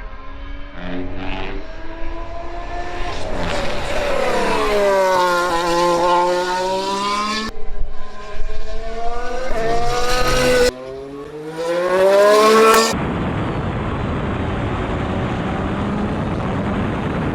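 Formula 1 car's turbocharged V6 engine revving up and down through the gears on track, in several short shots with abrupt cuts between them. From about two-thirds of the way through, a steady rushing noise with no engine note.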